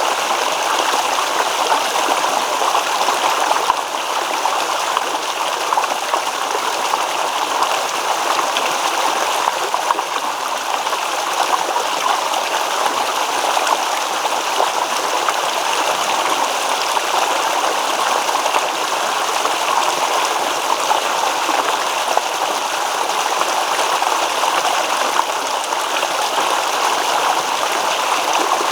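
Shallow stream babbling and splashing over stones, a steady rush of flowing water.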